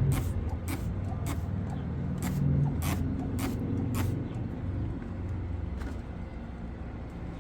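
Quick repeated swishing strokes of cleaning on a grimy patio surface, about two a second, that stop about four seconds in, over a steady low rumble.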